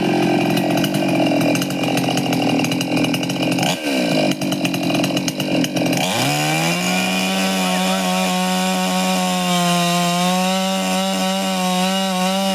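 Two-stroke chainsaw cutting into wood, its engine note rough and wavering under load. About six seconds in, the pitch dips and climbs back, then holds a steady high whine as the saw runs free at full throttle.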